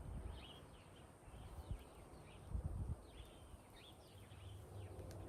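Faint small-bird chirps, many short calls scattered through, with a few dull low thumps, about a second and a half in and again near the middle.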